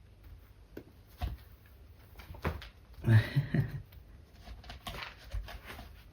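A kitten and a young Munchkin cat playing and scuffling: soft paw patter and scattered thumps, with a short louder burst about three seconds in.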